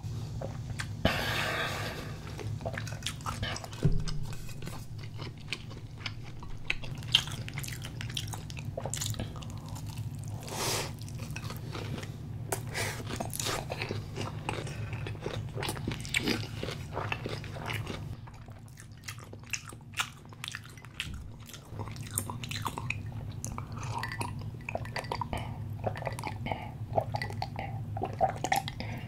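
Close-miked eating sounds: a person biting and chewing food, with many short crunches throughout.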